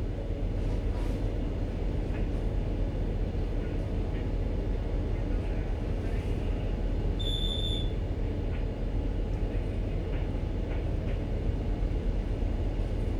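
Steady low rumble of a ship's machinery, with a short high electronic beep about seven seconds in.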